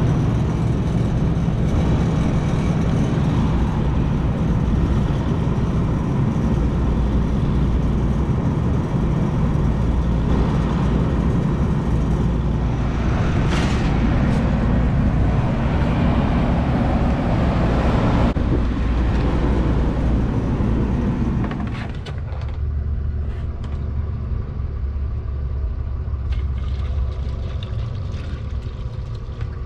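Air-conditioning unit running with both compressor stages and the condenser fan on: a loud, steady hum and fan rush. About three-quarters of the way through, the higher part of the noise drops away and it gets a little quieter.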